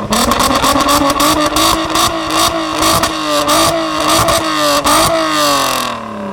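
A car engine revved hard and held at high revs, its note wavering, with a rapid stutter of sharp cracks running through it. The revs drop away near the end.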